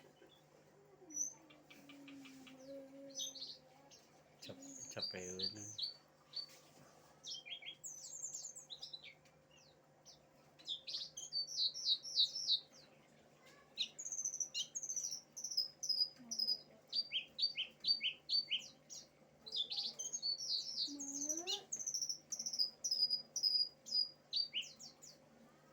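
Cingcoang songbird singing loud, fast bursts of high chirps and trills. The song turns almost continuous about ten seconds in, with a few brief lower sounds mixed in.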